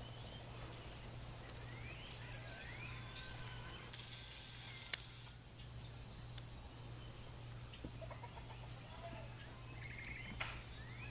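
Birds chirping faintly in the background with short rising calls and a quick trill, over a steady low hum. A few sharp clicks or taps come through, the loudest about five seconds in.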